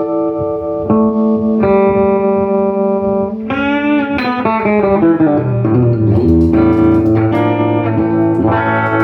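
Electric guitar played clean through a 1968 Fender Super Reverb tube amp: held notes ringing out, a quick descending run about halfway, then settling onto lower sustained notes.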